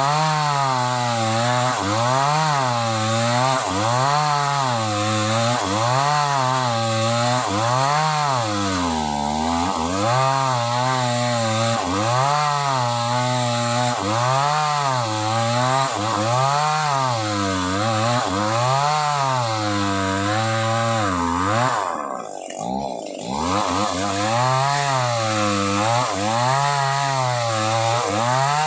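Sumura CS6500S two-stroke chainsaw cutting through old sobsi wood under load, its engine pitch rising and falling in a steady rhythm about once a second as the chain bites. It sounds strained. Near the end the engine bogs down, dropping low and quieter for about a second, then picks up again.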